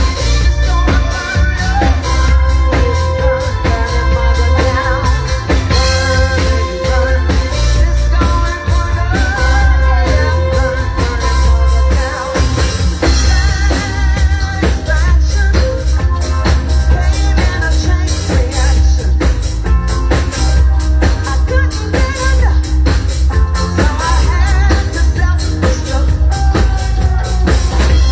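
A live band playing a song: a drum kit beat with heavy bass, and a singer's voice over it.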